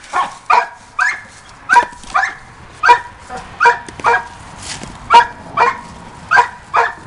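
A dog barking repeatedly in short, sharp barks, about two a second.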